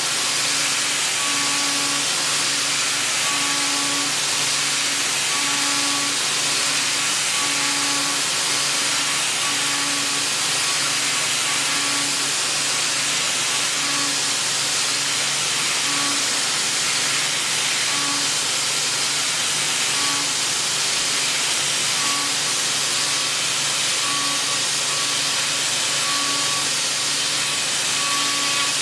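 Milling machine at work: a steady, loud hiss with a humming tone that pulses on and off every second or two.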